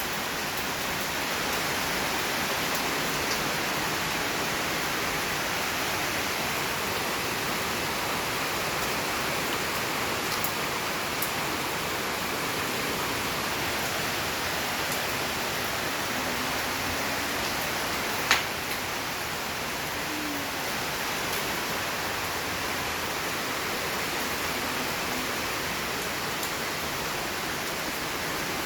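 Heavy rain falling steadily, an even hiss of downpour. A single sharp tap stands out about two-thirds of the way through.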